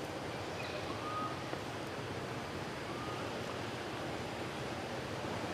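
Steady rushing outdoor background noise, with a few faint, short high chirps about half a second, one second and three seconds in.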